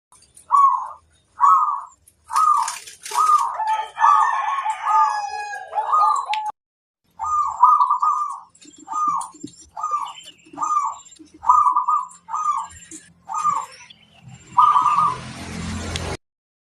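Zebra doves (perkutut) cooing: a long run of short, bubbly coo phrases, several birds calling back and forth, with thin high chirps of small birds above them. The sound cuts off suddenly near the end.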